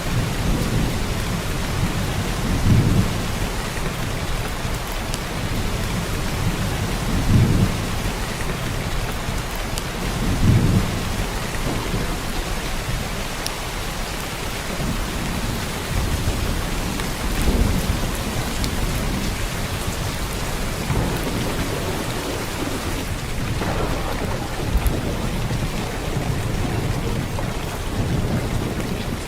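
Heavy downpour of rain falling steadily. Brief low rumbles rise out of it every few seconds.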